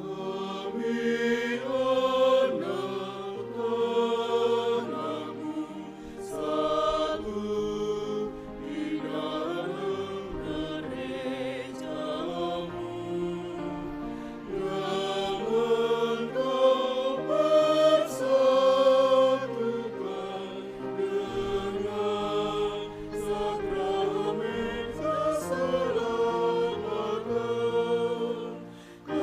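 Mixed choir singing a hymn in several voice parts, with sustained, slowly changing chords and a short drop in level near the end.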